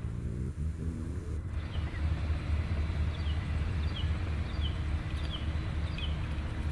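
Low, steady rumble of a Sikorsky HH-60G Pave Hawk helicopter, with a bird's short falling chirps repeating from about a second and a half in.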